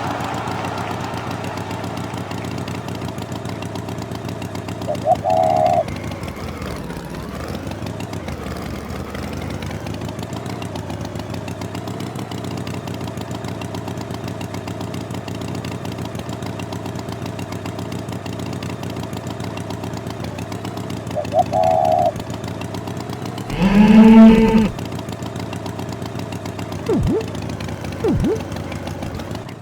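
A steady engine hum, like an idling tractor, with a cow mooing once loudly near the end. A few short higher tones and two sharp clicks come in between.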